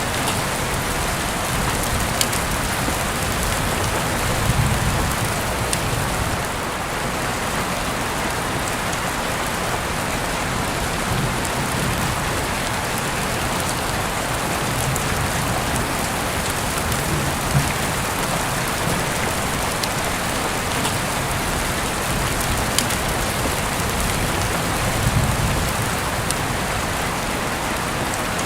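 Heavy rain falling steadily, a dense even hiss with scattered sharp drips, heard through an open window. A few low swells of louder rumble come and go, about four seconds in and again near the end.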